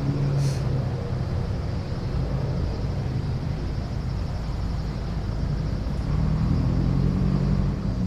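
Car engines running at low revs as cars roll slowly out of a meet: a steady low engine note with rumble, which steps up slightly in pitch about six seconds in as an engine picks up revs.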